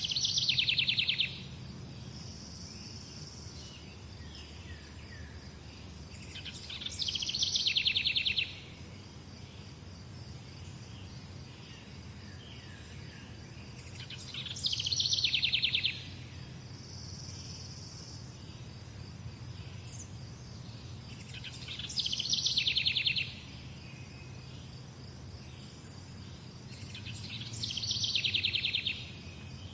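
A songbird repeating the same short, fast trill about every seven seconds, five times, each phrase swelling and then cutting off, over a steady high-pitched insect drone and a low hum.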